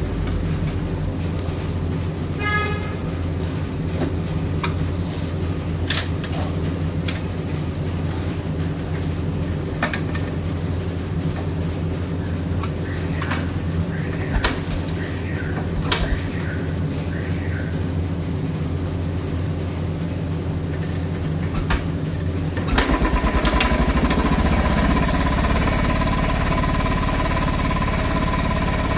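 Single-cylinder motorcycle engine idling steadily, with scattered clicks and knocks. About 23 seconds in the engine note gets louder and rougher, with a chugging beat.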